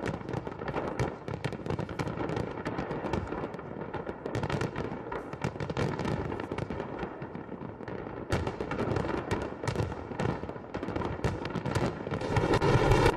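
Fireworks salute: a dense run of bangs and crackles from bursting shells, growing louder near the end.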